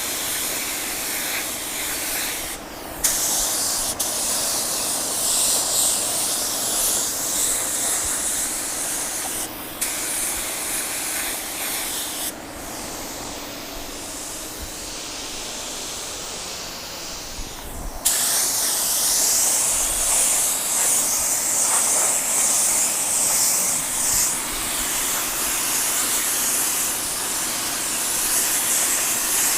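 Compressed-air paint spray gun hissing as it sprays clear coat, in long passes broken by short stops where the trigger is released, with a longer quieter pause in the middle.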